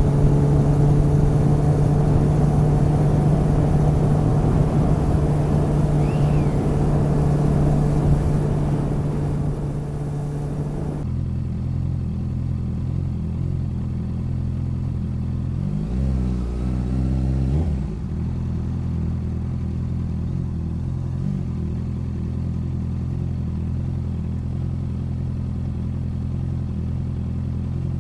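Motorcycle engine running under way with wind noise, then settling to a steady idle about eleven seconds in. Near the middle of the idle it is given a short blip of the throttle, about two seconds of rising and falling revs, before dropping back to idle.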